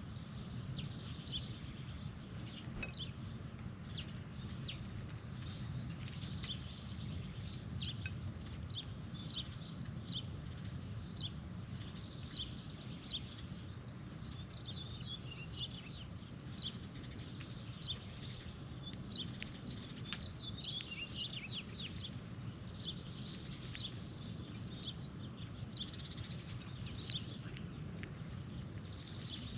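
Birds chirping outdoors: many short, high chirps scattered throughout, over a steady low background rumble.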